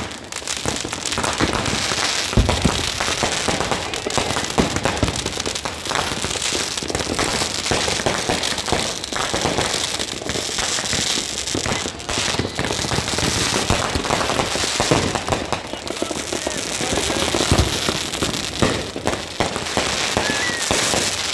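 Fireworks and firecrackers going off nonstop in a dense crackle of pops, with a heavy boom about two seconds in.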